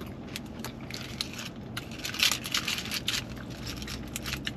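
Close-up chewing of a mouthful of burrito, with wet mouth clicks and the crackle of its foil wrapper being handled, busiest about two seconds in.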